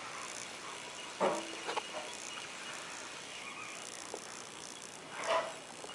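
A baby's brief vocal sounds: a short noise about a second in and a breathy one near the end, over faint steady room hiss.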